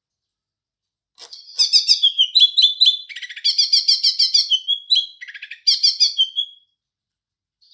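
Cucak ijo (green leafbird) singing a fast, chattering burst of song about five seconds long, starting about a second in, its phrases filled with mimicked sparrow fighting chatter.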